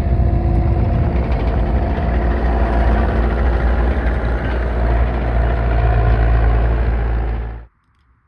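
An engine running steadily with a heavy low rumble, cutting off abruptly near the end.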